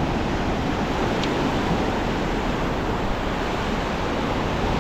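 Steady rush of ocean surf breaking on a beach, with some wind on the microphone.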